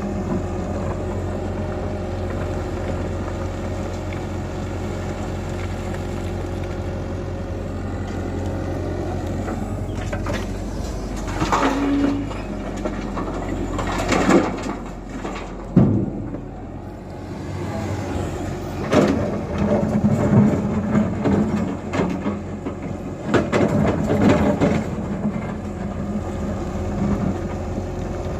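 Tata Hitachi EX120 crawler excavator's diesel engine running steadily. From about ten seconds in it works under varying load, with several sharp knocks and clanks while it loads a truck.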